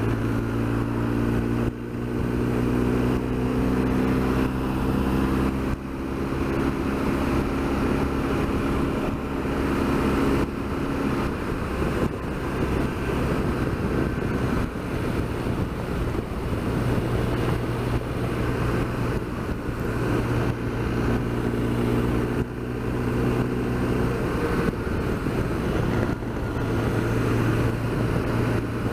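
BMW R1200GS Adventure's flat-twin engine running steadily at cruising speed, with wind rushing past, heard from the rider's camera. The engine note dips briefly about 2 seconds in and again about 6 seconds in.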